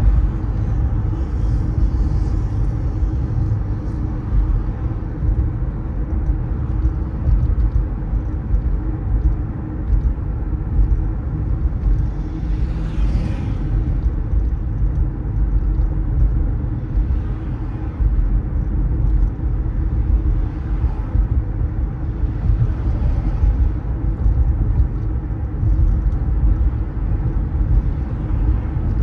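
Steady low rumble of a car driving on city roads, with a few brief rising-and-falling hisses, the clearest about 13 seconds in.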